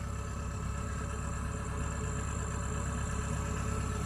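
A heavy farm machine's diesel engine running steadily, growing a little louder toward the end.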